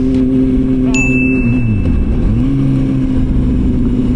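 Motorcycle engine running under way, its pitch dropping and then rising again about two seconds in. A brief high, steady tone sounds about a second in.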